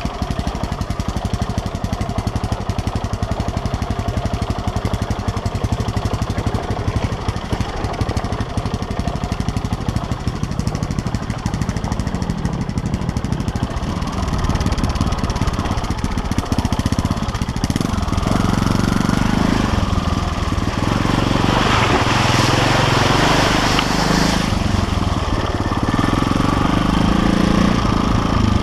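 KTM LC4 350 single-cylinder four-stroke enduro engine running at low revs, then getting louder and more uneven about halfway through as the throttle is worked. A stretch of hissing noise joins it about three-quarters of the way in.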